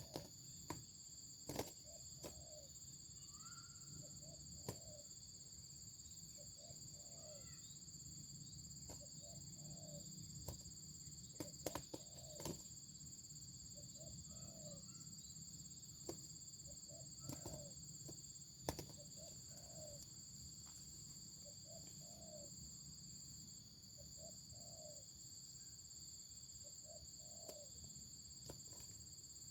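Anduhur dolok dove calling, faint short coos repeated about every two seconds, over a steady high drone of insects, with a few sharp clicks.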